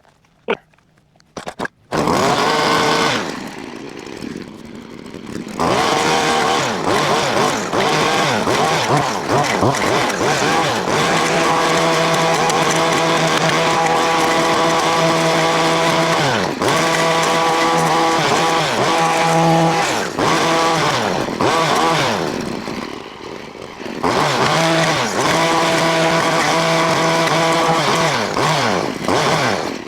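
A two-stroke gas weed eater fitted with a cutting blade comes in suddenly about two seconds in and runs at high revs while cutting brush. It eases off twice, about three seconds in and again near twenty-two seconds, before opening back up.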